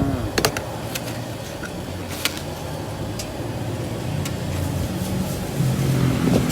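Steady road noise from passing traffic, with a few sharp light clicks and knocks scattered through it.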